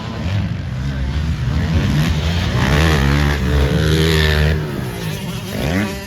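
Motocross dirt bike engines racing on track, revving up and down through the gears. The sound swells loudest through the middle and ends with a quick rising rev near the end.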